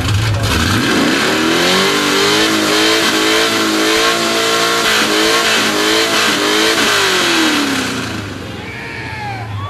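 Car engine revved hard through open, uncapped headers: it jumps from idle about a second in, is held high with the pitch wavering for several seconds, then drops back to idle near the end.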